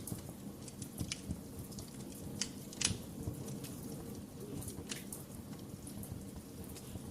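Fireplace fire crackling: scattered sharp pops and snaps over a low steady rumble, the loudest pop about three seconds in.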